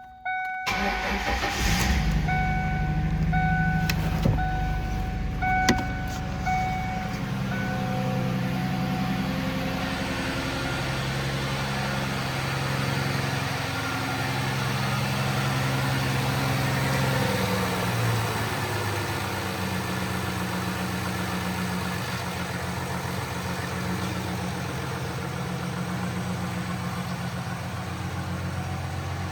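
1995 Ford Mustang's 3.8-litre V6 starting and running at a raised idle, then dropping to a lower steady idle a little past the middle. A repeating beep sounds on and off for the first several seconds, with a couple of sharp clicks.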